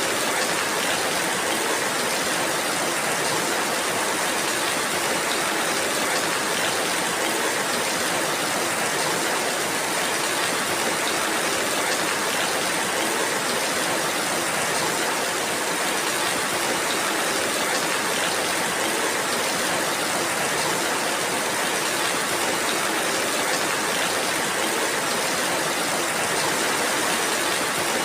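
Steady rain falling, an even, unbroken hiss with no single drops or other events standing out.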